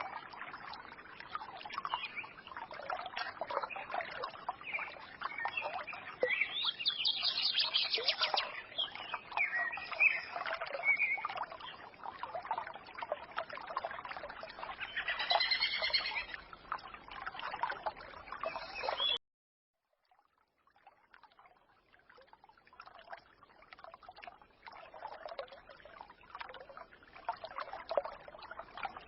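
Small forest brook trickling and babbling, with small birds chirping and twittering over it. About two-thirds of the way through, the sound cuts off abruptly for about a second, then the trickle comes back quieter.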